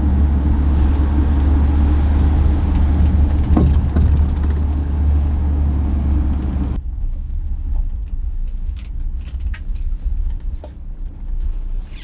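Campervan driving, a steady low rumble of engine and road noise heard from inside the cabin, with a brief rising sound about three and a half seconds in. The rumble cuts off abruptly about seven seconds in, leaving a much quieter stretch with a few scattered small clicks.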